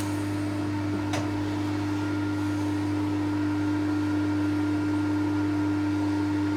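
TOS milling machine's spindle motor running in reverse with a left-handed drill bit in a drill chuck, a steady, even hum. A single sharp click about a second in.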